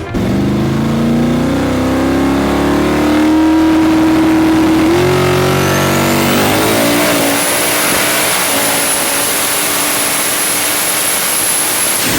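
High-powered drag car engine revving hard, its pitch climbing, with a shift in the note about five seconds in. From then on a high whine rises and then holds. The sound cuts off abruptly near the end.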